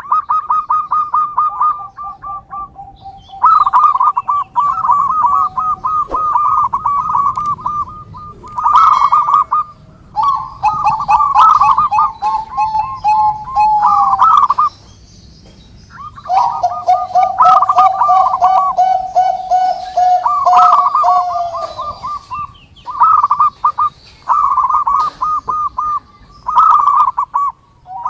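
Zebra doves (perkutut) cooing: rapid runs of short, high notes repeated in bouts of several seconds, with a lower, steadier note running under them at times and brief pauses between bouts.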